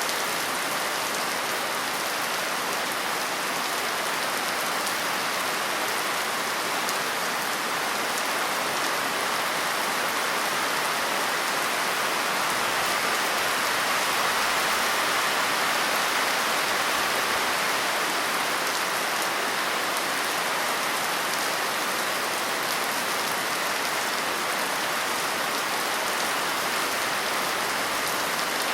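Steady rain falling on a surface, an even dense patter.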